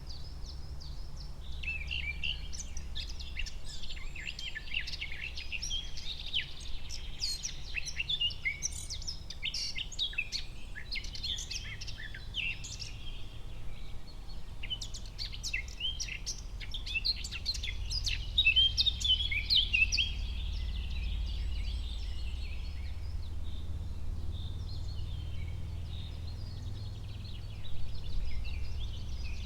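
Forest ambience of many small birds chirping and singing in quick, overlapping calls over a steady low rumble. The birdsong is busiest through the first two-thirds and thins out near the end.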